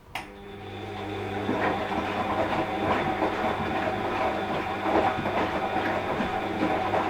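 Washing machine drum starting to turn again after a pause in the wash cycle: a click, then the motor hum builds over about a second into steady tumbling with irregular knocks of the laundry in the drum.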